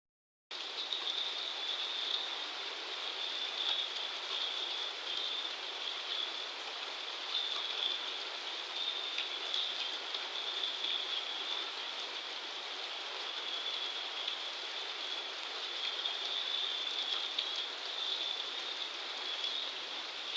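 Heavy rain pouring down in a steady, even hiss, with a constant high-pitched band running through it.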